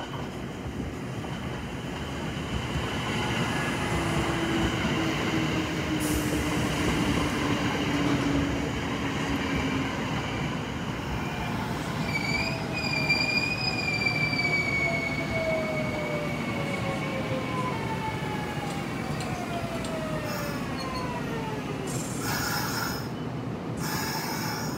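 Kintetsu 8810 series and 1252 series electric train pulling in and braking to a stop. Wheels rumble on the rails. A high squeal comes about halfway, then motor whines slide down in pitch as the train slows, with short bursts of hiss near the end.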